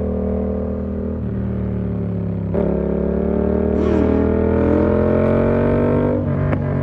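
Yamaha MT-07's parallel-twin engine through an SC Project exhaust with the dB killer fitted, heard from the rider's seat under way. It runs steadily at first; about two and a half seconds in the throttle opens and the revs climb slowly for a few seconds, then fall away near the end.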